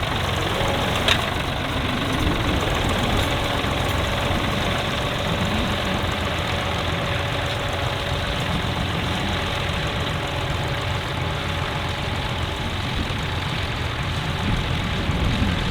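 Tractor engine running steadily, with a single sharp click about a second in.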